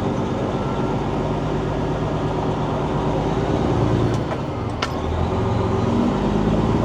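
Semi truck's diesel engine running at low revs, heard from inside the cab, its pitch shifting slightly as it moves off; a single sharp click near the middle.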